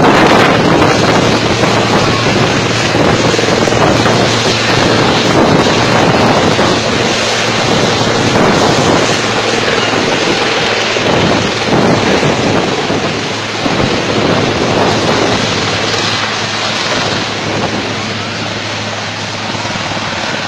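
Helicopter running, a loud steady engine and rotor noise with a low hum, easing slowly toward the end.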